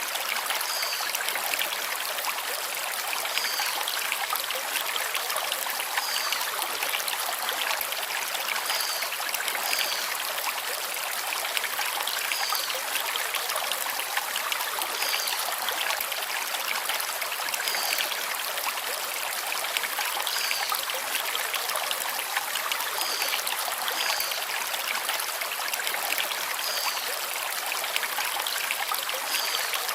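Mountain stream flowing steadily over river stones, with a bird chirping a short high note every couple of seconds.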